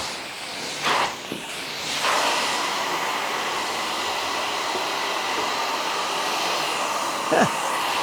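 Truck-mounted carpet extractor wand working the carpet: a steady rushing of suction and spray that starts about two seconds in, after a short burst, with a brief knock near the end.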